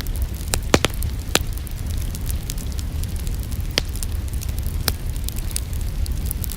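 Wood fire in a fireplace crackling, with irregular sharp pops and fainter ticks over a steady low rumble.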